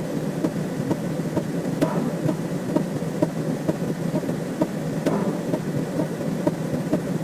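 Dense, overlapping synthetic sound effects forming a constant noisy wash full of rapid clicks. A sharper hit comes about every three seconds.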